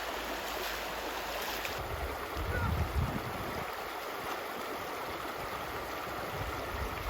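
Steady rush of running water in a mountain valley stream, with low buffeting on the microphone about two to three seconds in.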